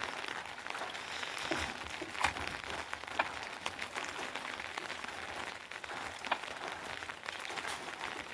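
Steady rain, an even hiss dotted with scattered sharp drip ticks.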